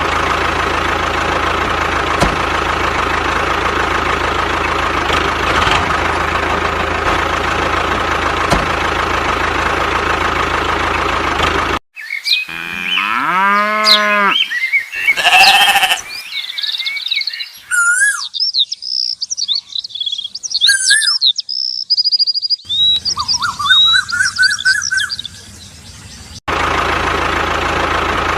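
Homemade mini tractor's small motor running steadily. After about twelve seconds it cuts to farm-animal calls, a cow mooing among them, followed by bird chirps and whistles, and the motor comes back in near the end.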